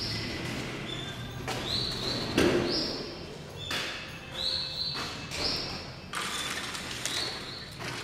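Repeated harsh, screechy bird calls, about six of them, each lasting under a second. A dull thud about two and a half seconds in.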